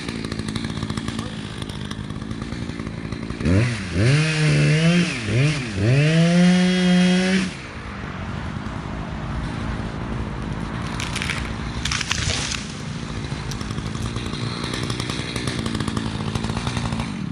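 Two-stroke Echo chainsaw idling. About three and a half seconds in it is revved up and down in quick throttle blips, held at high revs for a couple of seconds, and drops back to idle.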